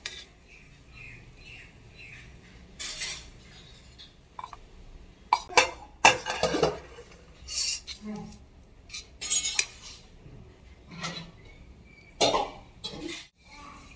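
Dishes and metal cutlery clinking and scraping in irregular bursts, the loudest clatters just past the middle.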